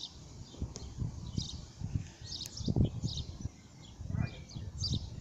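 Sparrows chirping: short, high chirps repeated every half second or so, over low, uneven rumbling thumps.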